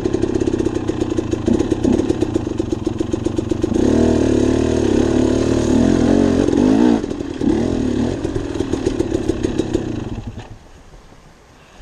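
Dirt bike engine running, its revs rising and falling several times in the middle, then dropping away to a much quieter hiss near the end.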